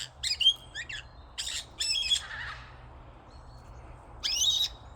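Birds calling in short clusters of high-pitched calls: a few near the start, more about two seconds in, and another burst near the end.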